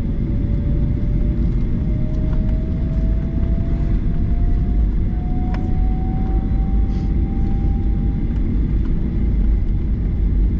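Cabin noise inside a Boeing 737-900ER taxiing after landing: a steady low rumble from the idling CFM56 engines and the wheels on the taxiway. A faint tone rises slowly in pitch through most of it and fades out near the end.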